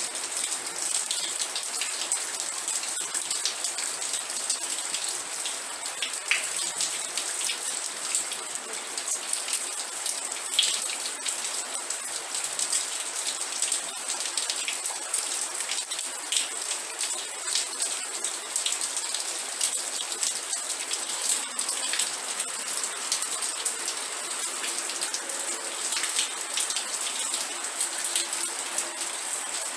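Steady rain with many close drops ticking and splashing on a hard surface.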